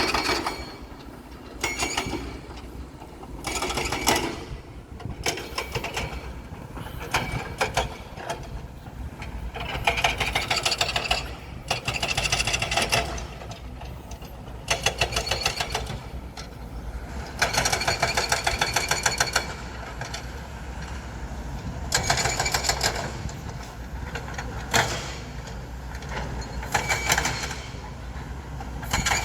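Heavy machinery working: a steady low engine rumble with repeated bursts of rapid mechanical clattering, each lasting about half a second to two seconds, a dozen or so times.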